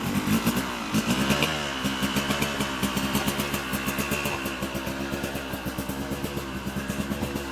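Small off-road vehicle engines idling and revving, their pitch rising and falling.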